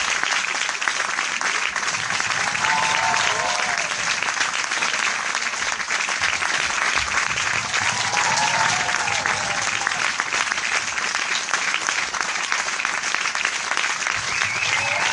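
Large crowd applauding steadily, a dense unbroken patter of many hands clapping. A few voices call out briefly above it, about three times.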